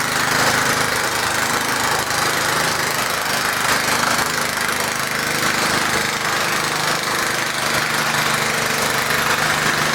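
Garden tractor engine running steadily.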